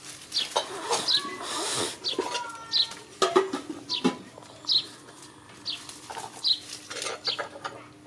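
Short high chirps of a bird repeat about once a second, over puppies' paws rustling and crackling through dry leaves.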